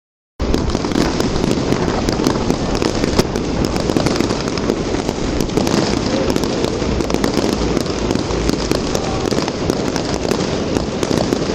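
Fireworks display: a dense, continuous crackle of many small rapid pops, starting just under half a second in.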